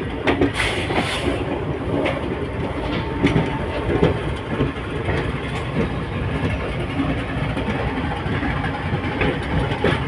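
Passenger train rolling, a steady rumble with irregular clacks and knocks of wheels over rail joints.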